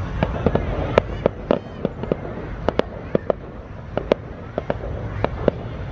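Fireworks going off: an irregular string of sharp bangs and cracks, about two a second, over a steady low rumble.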